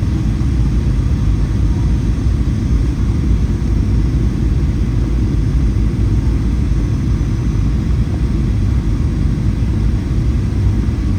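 Steady low cabin rumble of a Boeing 737-800 in flight, the noise of its CFM56-7B jet engines and the airflow over the fuselage heard from inside the cabin.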